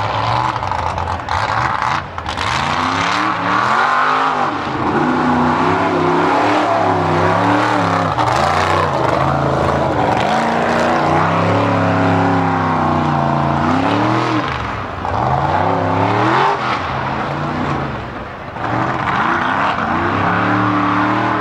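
Mud racing buggy's engine at full throttle through the course, its pitch rising and falling over and over as the driver works the throttle, easing off briefly several times.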